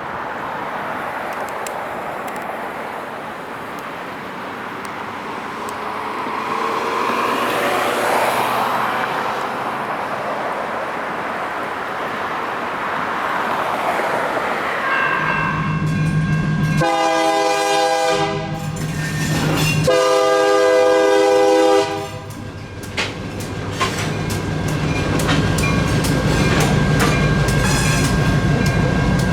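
A light rail train approaching with a rising rumble sounds its horn in two blasts, the second longer, then passes with a steady low rumble and a quick run of clicks.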